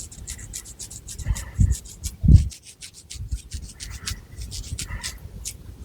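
Long fingernails scratching through thick hair and over the scalp in quick, rasping strokes, with a few soft low thumps, the loudest about two seconds in.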